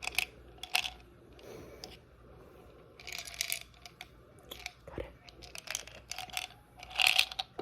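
Close-miked crinkly crunching and clicking of small objects being handled, in several short bursts with quiet between them.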